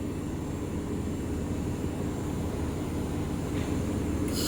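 Steady mechanical hum of the running air-cooled handheld laser welder and shop machinery. Near the end a loud steady hiss starts.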